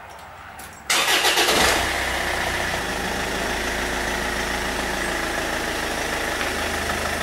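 Car engine cranked briefly by the starter motor and catching about a second in, then idling steadily. The quick start comes on a newly fitted, fully charged battery that replaced a faulty one that gave sluggish cranking.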